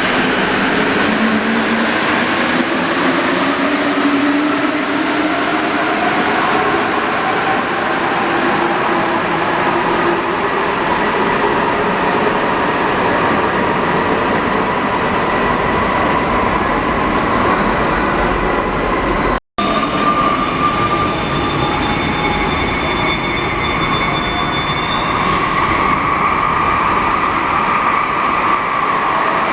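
Santiago Metro NS-74 train running, its motor whine rising in pitch over the first several seconds as it gathers speed, then holding steady under constant running noise. After a brief dropout about two-thirds in, high steady whistling tones sound for a few seconds and then stop.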